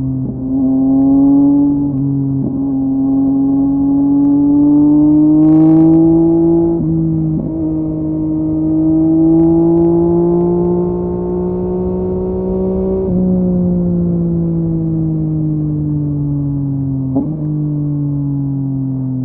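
Yamaha MT-09's inline three-cylinder engine through a LeoVince LV Race exhaust, heard while riding. The pitch climbs slowly under throttle with a brief break about seven seconds in, then falls steadily as the bike slows, and settles to a steady note near the end.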